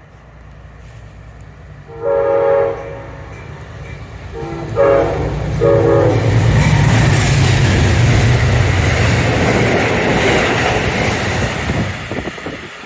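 Amtrak passenger train sounding its horn, one blast followed by two shorter ones, then running past close by with a loud rumble of locomotive and wheels on rail that eases off near the end.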